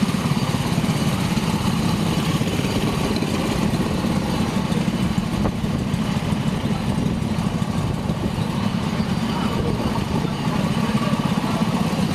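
Small kart engine idling steadily, a low, even buzz.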